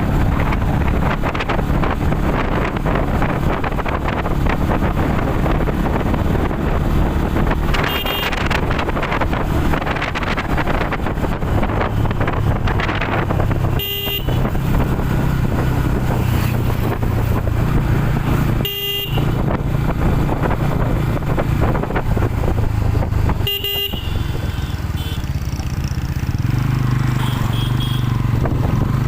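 Motorcycle engine running at riding speed with wind noise on the microphone. A horn gives four short beeps several seconds apart.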